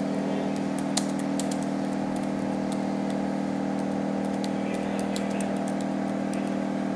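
Steady low hum with faint, irregular light clicks scattered over it, one slightly sharper about a second in.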